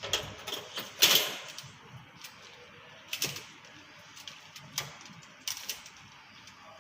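Dissecting instruments snipping and clicking as a chicken carcass is cut open for a postmortem: a handful of sharp, irregular snips, the loudest about a second in.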